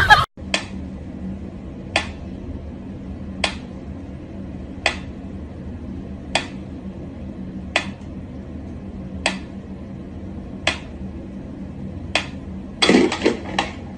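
Sharp light clicks of something hard, about one every second and a half, over a steady low hum, with a quick flurry of clicks near the end.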